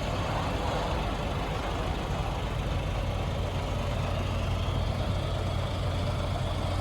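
Scania S500 truck's 13-litre inline-six diesel idling with a steady low hum.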